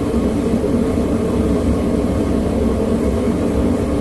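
Propane forge burner running with a loud, steady low rush, no strikes or breaks, while it heats the steel.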